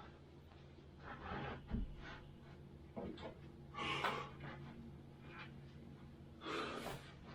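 A person breathing hard, with a few loud breathy exhalations a second or two apart, over a low steady hum.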